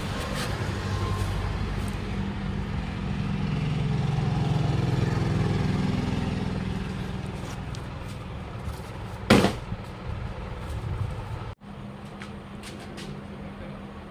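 A motor vehicle's engine rises and then fades, as if it passes close by. A short, sharp, loud sound comes about nine seconds in, and the sound cuts out abruptly shortly after, leaving a quieter steady hum.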